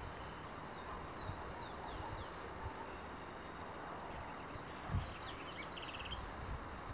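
Small birds chirping: clusters of short, high, falling chirps, with a brief rapid buzzy trill near the end, over a steady outdoor hiss. A low thump about five seconds in.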